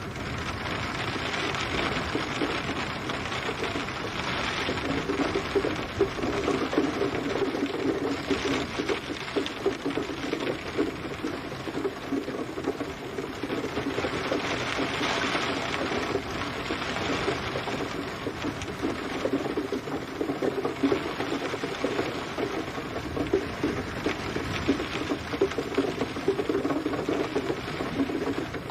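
Steady rain falling hard, with a dense patter of drops hitting a surface, swelling and easing slightly every few seconds.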